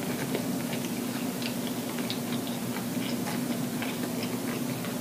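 Close-up chewing of a mouthful of chicken shawarma wrap: faint, irregular wet mouth clicks over a steady low hum.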